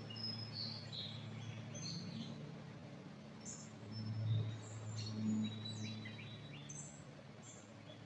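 Several small birds chirping and calling in short high notes, scattered throughout, over a steady low hum.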